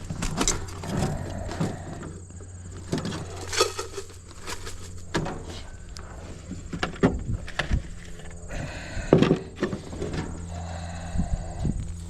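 Beekeeping gear being handled while a smoker is set up: irregular knocks, clicks and rattles, some sharp, over a steady low hum of honey bees.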